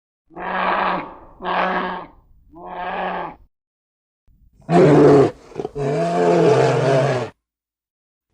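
Farm animal calls: three short calls in a row, a pause, then a loud short call followed by a longer drawn-out call.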